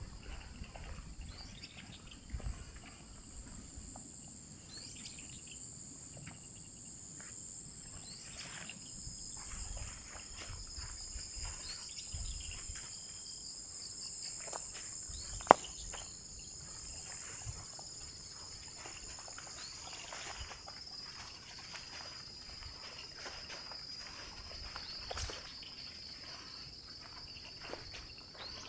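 Crickets and other insects singing steadily in a high-pitched chorus, with scattered light clicks and knocks and one sharp, loud click about halfway through.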